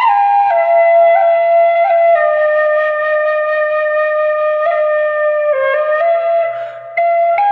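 Irish flute playing a slow solo melody of long held notes, stepping and sliding from one to the next, with a short break for breath near the end before the next phrase begins.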